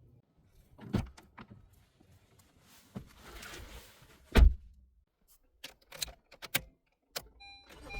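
Getting into a 2021 Honda HR-V: clicks and key jingling, then the car door shutting with a single loud thump about halfway through. Near the end the car's electronic chime begins beeping in a repeated pattern.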